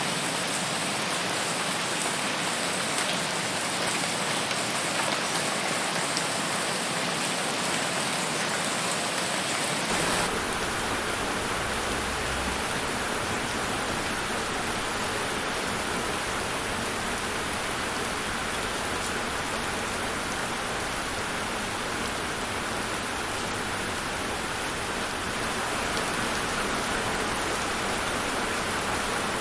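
Steady rain falling, a dense hiss of drops. About ten seconds in the sound changes abruptly to a smoother, fuller rush with more low rumble, as one rain recording gives way to another.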